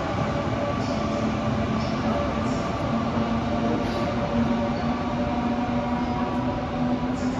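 Taiwan Railways Tze-Chiang express train pulling out and accelerating away along an underground platform: a steady running rumble with a low hum that edges slightly up in pitch.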